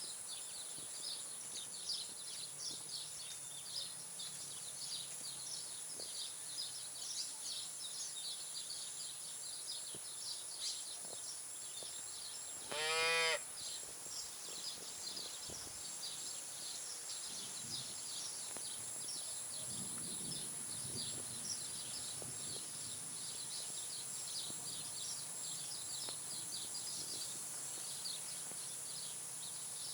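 Countryside ambience: a steady high insect drone with dense chirping throughout. About halfway in, a cow gives one short, loud moo, and a fainter low call follows some seconds later.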